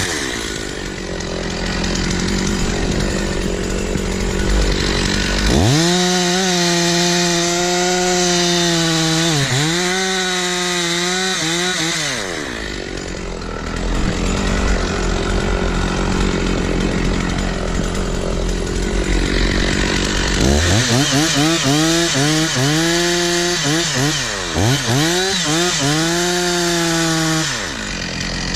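Stihl 046 two-stroke chainsaw revved up to full throttle twice for several seconds each, the pitch sagging as the chain loads up in the wood, then dropping back to idle between cuts.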